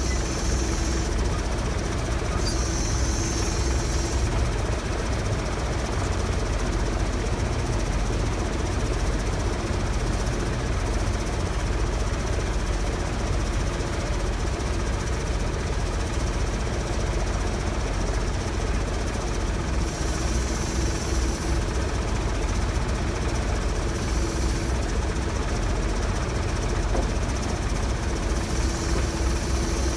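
A diesel engine running steadily, with short bursts of hiss several times.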